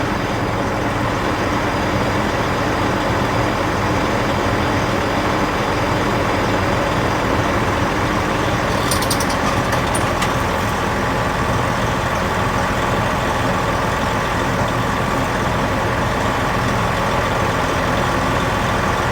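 2001 Freightliner Century semi truck's rebuilt diesel engine idling steadily. A brief hiss with a few clicks comes about nine seconds in.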